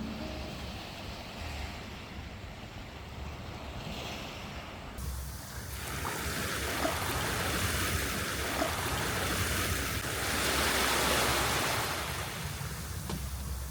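Sea waves washing onto the shore, a surge of surf swelling to its loudest about ten seconds in and then drawing back.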